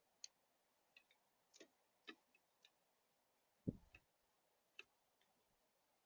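Irregular light taps and clicks at a bird feeder, typical of birds pecking at seed, with one heavier thump about three and a half seconds in.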